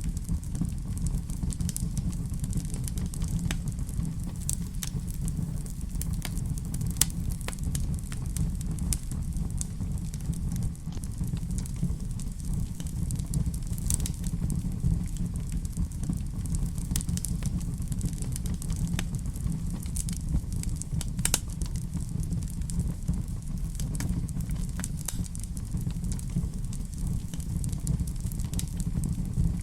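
Wood fire burning in a fireplace: a steady low rumble with irregular sharp crackles and pops throughout, a few louder pops standing out.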